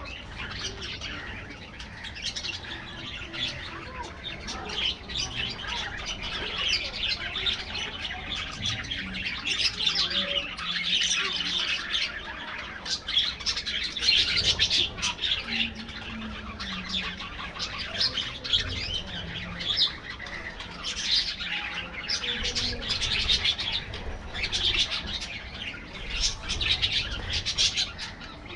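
A colony of budgerigars chattering and chirping continuously, many birds warbling over one another in swells of louder chatter.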